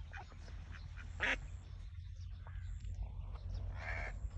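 Ducks quacking in short calls, the loudest about a second in and another near the end, over a steady low rumble.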